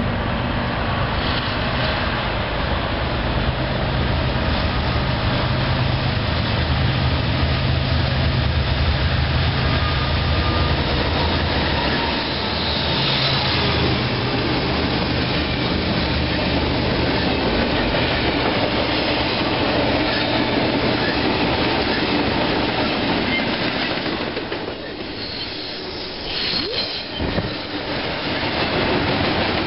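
Freight diesel locomotive approaching and passing close by with a deep engine rumble for about the first twelve seconds. A double-stack container train's well cars then roll past with steady wheel-on-rail noise and a brief high wheel squeal.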